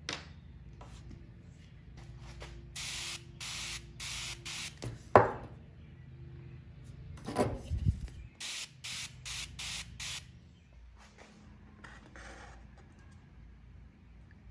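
Aerosol spray paint can sprayed in short bursts: four quick bursts, then after a pause six more. Between them come a sharp knock and a short clatter of knocks, the loudest sounds.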